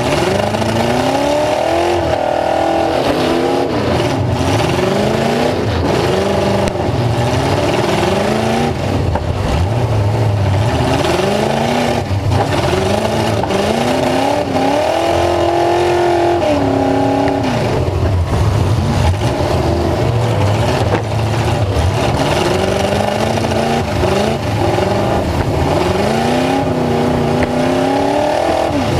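Full-size truck engine revving hard, its pitch rising and falling again and again, loud and continuous.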